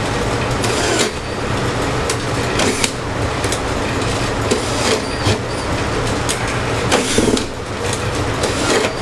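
A motor-driven woodworking rig running steadily with a low hum while the wooden bowl blank turns inside it, with irregular sharp clacks and knocks as the wood is cut.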